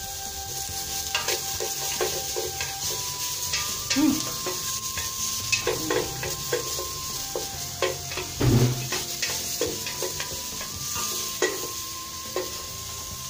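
Chopped onion and garlic sizzling in a little hot oil in a metal pot, while a wooden spatula scrapes and knocks against the pot as they are stirred; the strokes come irregularly over a steady sizzle, with a louder knock about eight and a half seconds in.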